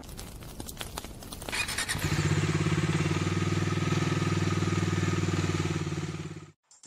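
Motorcycle engine running steadily, coming in about two seconds in and cutting off suddenly near the end.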